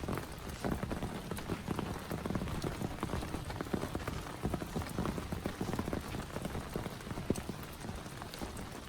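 Heavy rain falling steadily, with many drops striking a surface close by as dense, irregular taps over a deep rushing wash.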